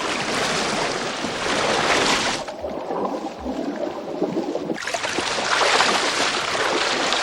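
Rushing river water: a steady, noisy wash that turns duller for about two seconds midway, then returns to full.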